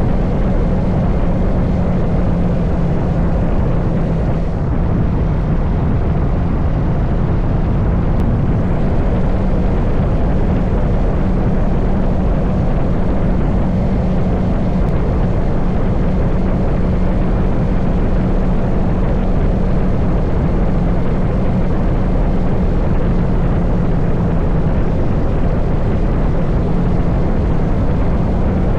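Motorcycle riding at a steady speed: the engine holds one steady pitch under loud, unbroken wind and road noise.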